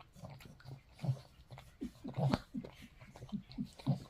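Dog licking and breathing close to the microphone: a quick run of short irregular noises, with a sharp click about two seconds in.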